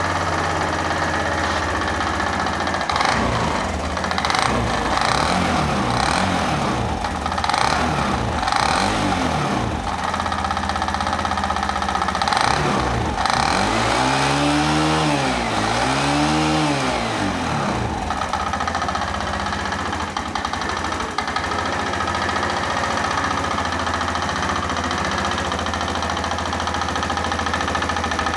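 Fuel-injected Suzuki Address V125 scooter's single-cylinder four-stroke engine idling, blipped briefly several times, then revved up and back down twice about halfway through before settling to idle again. The engine is sold as having an abnormal running noise.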